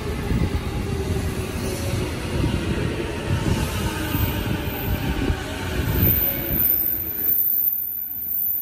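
JR Keiyo Line electric commuter train moving along the platform track, its wheels rumbling on the rails with a few irregular clacks; the sound fades away about seven seconds in.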